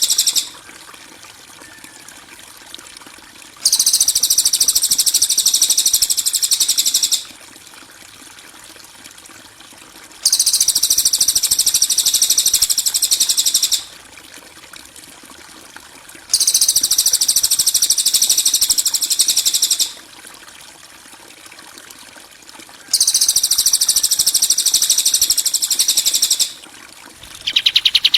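Songbird 'kasaran' master recording of harsh, rapid, high buzzing trill phrases, each about three and a half seconds long, repeated about every six to seven seconds. Near the end comes a shorter, lower buzzing phrase.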